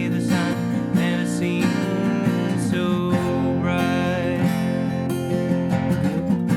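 Acoustic guitar strummed and picked steadily, playing a folk-style song.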